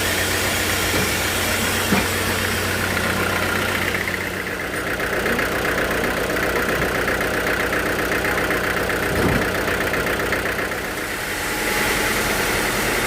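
A motor running steadily, with two short knocks, one about two seconds in and one past the middle. Its high hiss eases off from about four seconds in and returns near the end.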